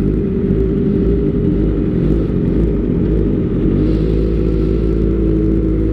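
Kawasaki ZX-25R inline-four engine running steadily at a constant pitch through an Austin Racing aftermarket silencer.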